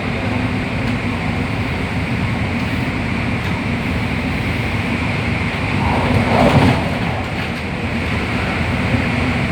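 MTR Tung Chung line CAF electric train heard from inside the carriage while running: a steady rumble of wheels on rail with a constant hum, swelling briefly about six seconds in.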